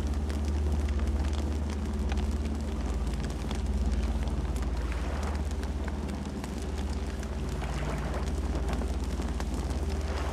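Campfire crackling, with frequent small pops and snaps over a steady low rumble.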